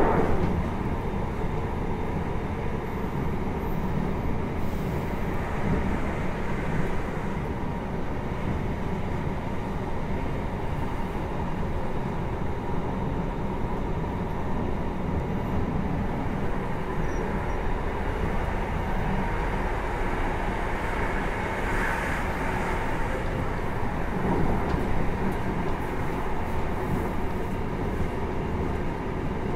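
Interior running sound of a JR Hokkaido 733 series 3000-subseries electric multiple unit under way: a steady rumble of wheels on rail with a faint high tone, heard from inside the passenger car.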